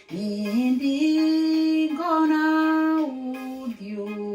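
A woman singing a slow gospel song, holding long notes that step up in pitch early on and fall back down near the end.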